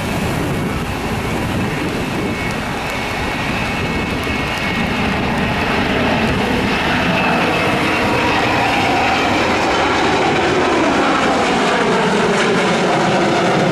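Jet airliner engines, a dense steady rush that grows slowly louder as the plane comes closer.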